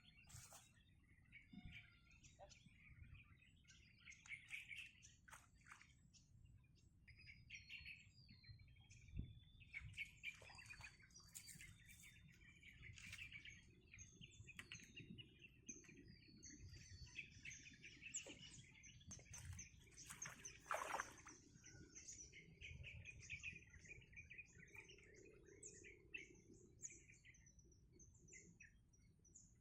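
Small birds chirping and calling, faint, many short repeated chirps and trills, some overlapping, over a low background rumble.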